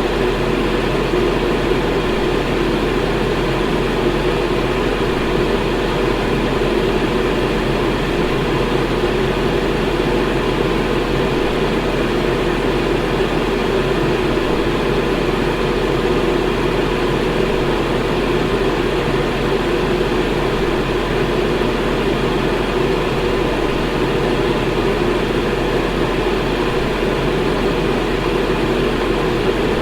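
Electric fan running steadily: a constant, even rush of air with a steady low hum beneath it.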